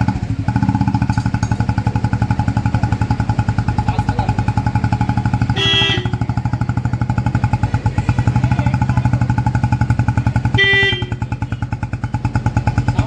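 Royal Enfield Classic 350's single-cylinder engine idling steadily through an aftermarket HK Indore silencer, with an even, rapid thump. Two brief beeps come about five seconds apart.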